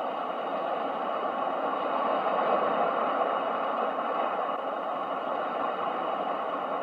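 Ocean surf: a steady wash of breaking waves that swells to a peak about two and a half seconds in, then slowly eases.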